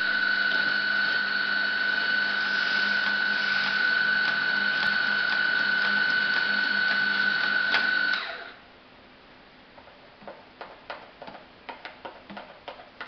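A coffee machine running with a steady motor or pump hum and a high whine for about eight seconds, then cutting off. A scatter of light ticks follows near the end.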